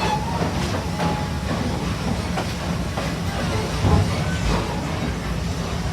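Amusement-park train running along its track, heard from aboard: a steady rumble with irregular clacks from the wheels, one louder knock about four seconds in.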